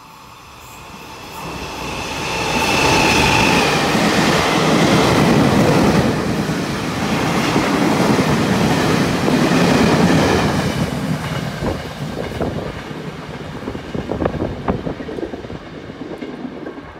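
Taiwan Railways Chu-Kuang Express, a locomotive-hauled passenger train, running through the station without stopping. It swells to a loud rushing rumble of wheels on rail as the carriages go by, then fades, with irregular clicks of wheels over the rail joints near the end.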